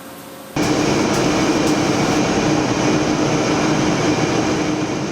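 Woodworking machinery running steadily with a constant hum, cutting in abruptly about half a second in.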